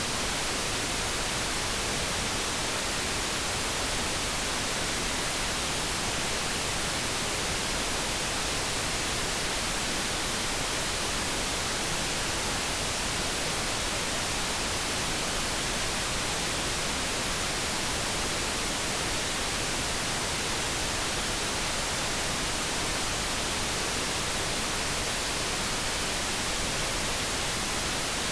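Steady synthetic noise: an even, unbroken hiss that does not change, with no tones or clicks in it.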